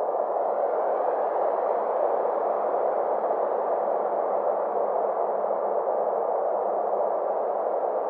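Synthesized ambient space drone: a steady band of filtered, hissing noise centred in the midrange, its brightness slowly swelling and then easing off again.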